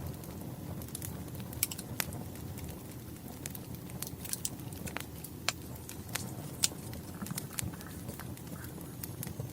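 Wood fire crackling: a steady low rumble with irregular sharp pops and snaps from the burning logs.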